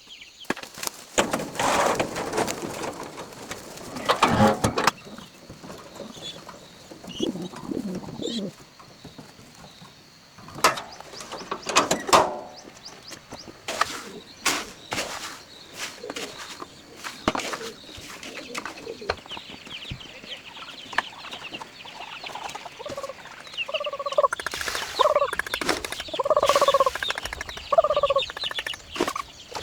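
Chickens clucking, with a run of short, repeated squawking calls in the last several seconds, amid scattered rustling and knocks.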